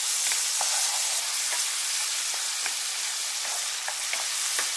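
Chopped tomatoes, garlic and parsley sizzling in hot oil in a nonstick pan as they are stirred with a wooden spoon: a steady frying hiss with a few light knocks of the spoon against the pan.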